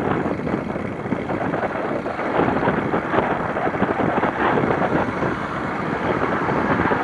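Wind buffeting a bicycle rider's microphone, a dense, rough rumble that rises a little about two seconds in.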